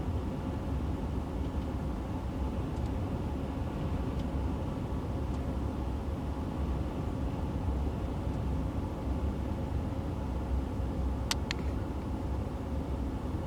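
Steady rumble of a vehicle on the move, engine and road noise, with two short clicks near the end.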